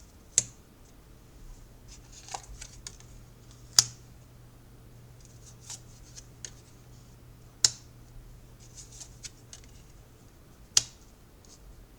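Tarot cards being handled and laid down: four sharp snaps about three and a half seconds apart, with softer clicks and rustling between.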